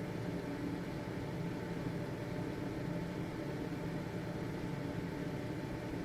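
Household ventilation fan running steadily: an even whooshing hum, mostly low, with a few faint steady tones from the motor.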